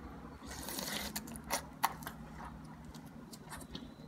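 Soft, wet mouth sounds of biting into and chewing a juicy Ortanique tangor segment: a short slurp-like hiss, then a few faint clicks.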